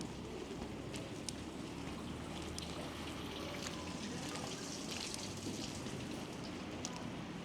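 Outdoor street ambience in a snowstorm: a steady hiss over a low rumble, with scattered faint ticks and a brief swell in the hiss about halfway through.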